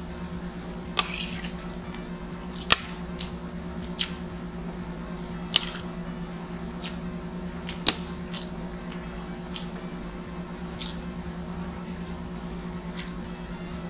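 Close-up wet chewing and mouth sounds of someone eating pancit noodles, with scattered sharp clicks and smacks, over a steady low background hum.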